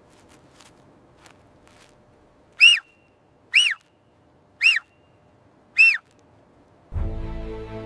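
An animal calling four times, about a second apart: short notes that each rise and fall in pitch. Music comes in near the end.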